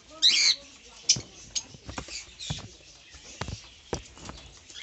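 Caged parrots calling: one loud high chirp just after the start, then scattered short, sharp chirps and clicks.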